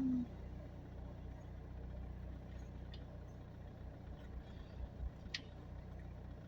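Car engine idling, a low steady hum, with a few faint clicks, the clearest about five seconds in.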